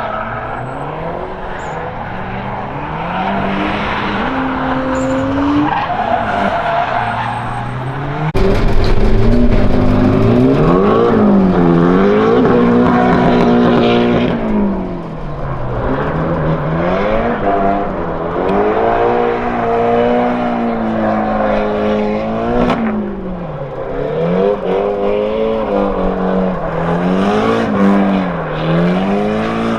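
Drift car on the track, its engine revving up and dropping back over and over as the driver works the throttle through the slides, with tyres squealing. It gets louder about 8 seconds in.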